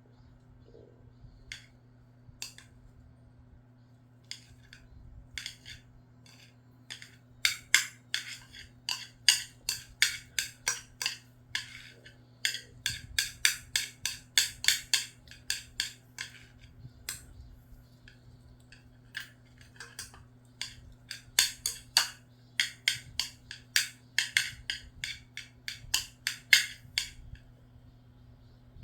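An eating utensil clicking against a bowl in quick runs of sharp taps, about three a second, with pauses between the runs. A faint steady low hum lies underneath.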